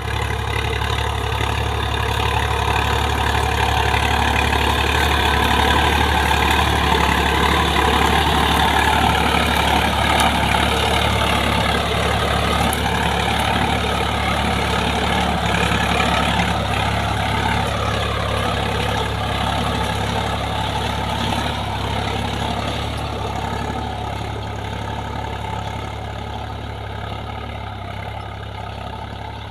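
Preet 955 tractor's diesel engine running steadily, growing gradually quieter over the second half.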